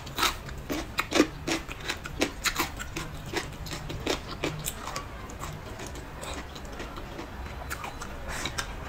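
Close-miked eating sounds: chewing and wet mouth clicks and smacks from braised pork trotters and leafy greens. They come as irregular sharp clicks, thickest in the first half.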